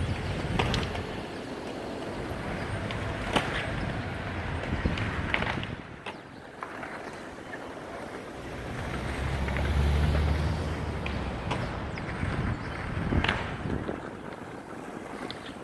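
City street traffic noise: a low rumble that swells and fades as a vehicle passes about two-thirds of the way through, with scattered short sharp clicks and knocks.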